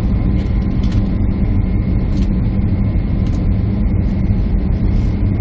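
Jet airliner cabin noise heard from a window seat: a steady low rumble of engines and airflow.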